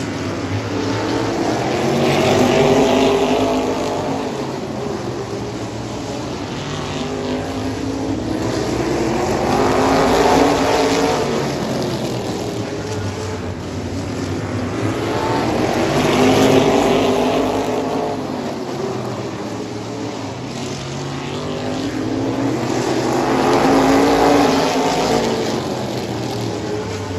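Race cars lapping a short oval track. Their engines swell past and fade away about every seven seconds, with the pitch rising and falling on each pass.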